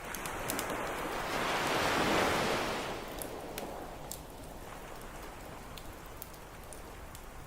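An ocean wave breaks and washes up the beach, swelling to a peak about two seconds in and fading by three seconds. Light scattered crackles of a campfire run through it.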